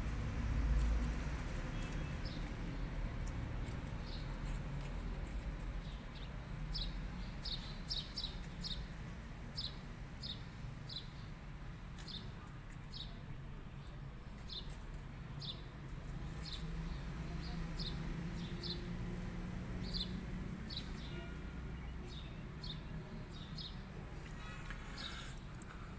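A small bird chirping repeatedly in short, high chirps, about one or two a second, over a steady low outdoor rumble.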